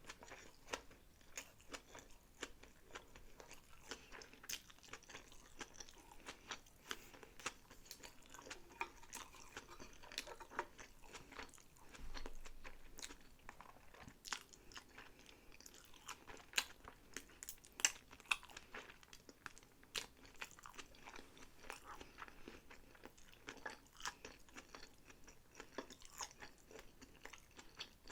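Close-miked chewing of sushi: continuous wet chewing with many sharp mouth clicks and small crunches, plus a dull low bump about halfway through.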